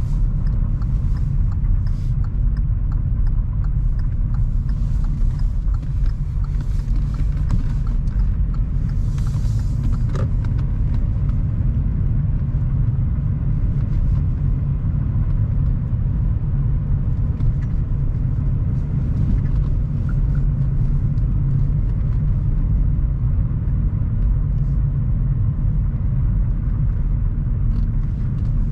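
Car on the move: a steady low rumble of engine and road noise, with scattered faint clicks and rattles.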